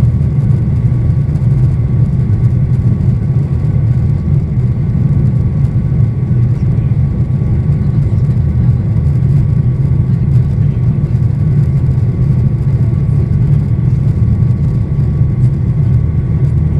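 Boeing 737-800's CFM56-7B turbofan engines running at high thrust, heard from inside the passenger cabin: a loud, steady deep rumble with faint steady whine tones above it.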